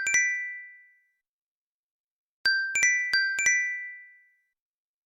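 iPhone ringtone: a short phrase of quick, high chiming notes that ring out and fade. The phrase starts again about two and a half seconds in.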